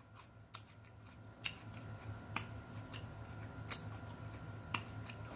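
A raw jalapeño pepper slice being chewed: about five sharp crisp crunches, roughly a second apart, over a faint steady low hum.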